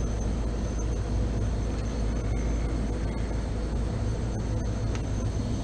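Refrigeration unit running steadily, a low hum under an even mechanical noise: one compressor and its fans are on, while the second compressor, though called for, has not started.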